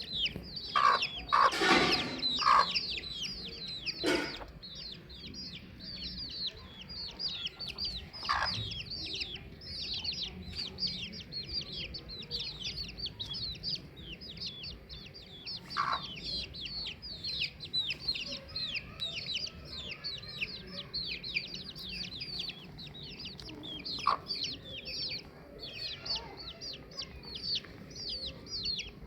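Domestic chicks peeping constantly, a dense stream of short, high, falling peeps, while a hen clucks now and then. The hen's calls come as a burst of several in the first few seconds and then singly every several seconds.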